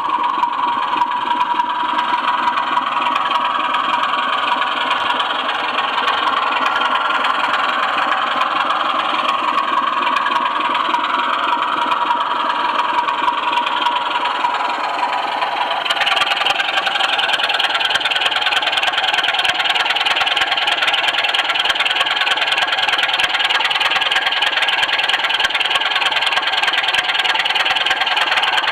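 Model train running steadily along the track: a continuous mechanical running sound with a wavering motor whine, which changes abruptly about sixteen seconds in.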